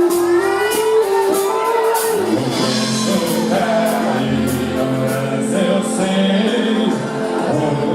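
Live band music with singing over a steady drum beat: held notes give way about two seconds in to a wavering sung melody.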